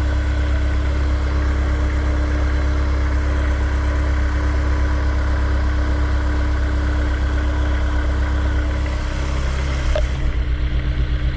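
Honda S2000's 2.0-litre four-cylinder engine running steadily. About ten seconds in there is a click, and the low sound changes to a quick, even pulsing.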